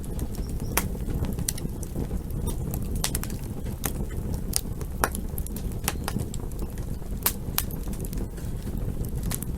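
Campfire crackling: wood burning with irregular sharp pops and snaps, several a second, over a steady low rumble.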